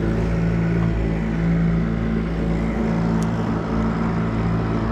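Small gas outboard motor running at a steady speed, pushing the boat along, with a rushing hiss of wind and water underneath.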